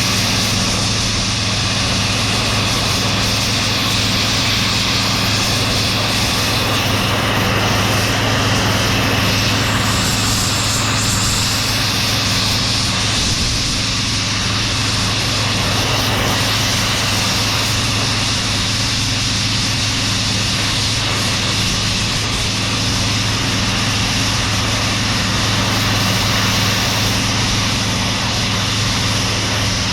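Steady roar of a cutting torch flame playing on scrap metal that is slow to melt, over a constant low hum.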